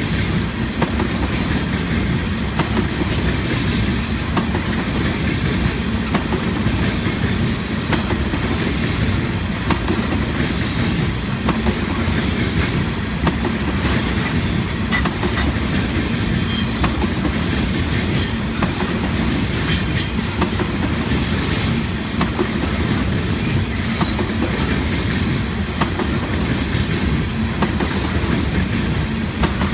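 Railroad tank cars of a long oil train rolling past: a steady rumble of steel wheels on the rails, with a regular clickety-clack as the wheels cross the rail joints.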